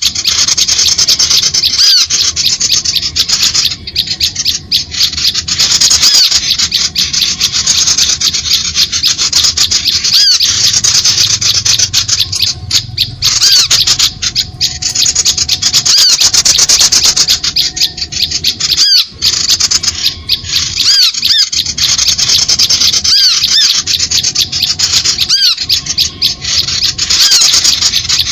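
Recorded lure call of small songbirds, used in bird trapping: a loud, continuous chatter of rapid high ticking calls with short high chirps over it again and again.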